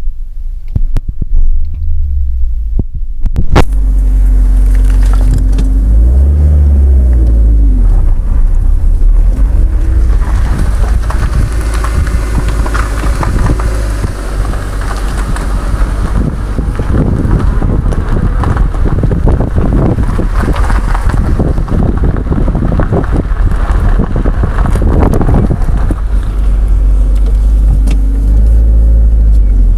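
2000 Mazda Protege with a manual transmission running, its engine note rising and falling several seconds in, with a rapid clunking and ticking that grows dense midway and eases near the end. The uploader takes the clunk for a clutch or transmission fault, not suspension.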